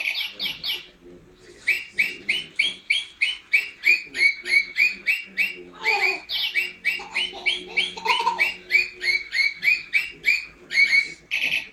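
A pet bird calling over and over in short, evenly spaced notes, about three a second, with a couple of brief pauses.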